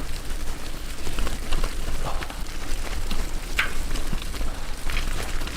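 Bicycle riding over a rough, wet off-road trail: tyres crunching over the surface and the bike rattling, with scattered clicks and knocks over a steady low rumble.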